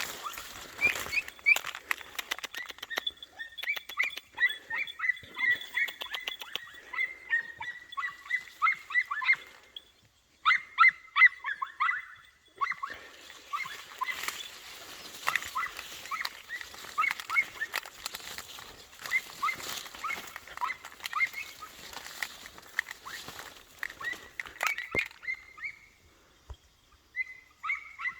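Podenco puppies giving tongue on a rabbit's trail: rapid, high-pitched yelps several times a second, with short breaks about ten seconds in and again near the end.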